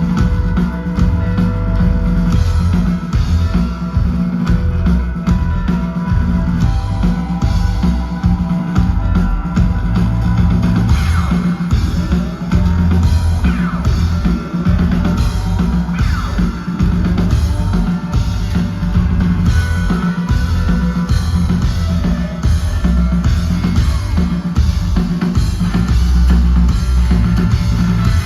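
Rock band playing live: heavy drums and bass under sustained guitar, with a run of gliding, swooping notes a little before the middle.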